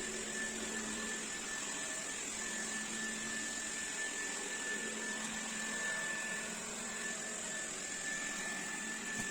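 Xiaomi Dreame D9 Max robot vacuum cleaner running: a steady whir with a thin, constant high whine.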